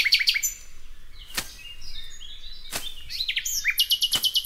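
Songbirds singing: quick high down-slurred chirps at the start, then a fast trill of rapid repeated high notes about four seconds in. A few faint clicks are spread through it.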